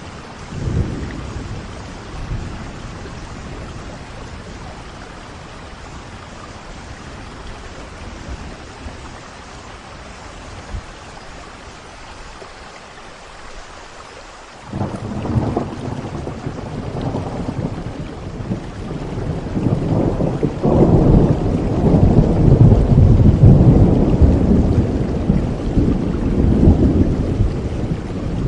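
Steady rain falling, with thunder. A short rumble comes about a second in, and about halfway through a long roll of thunder begins, growing louder and loudest near the end.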